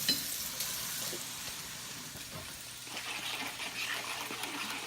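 Boneless chicken thighs sizzling steadily as they fry in a pan, with a brief clink right at the start.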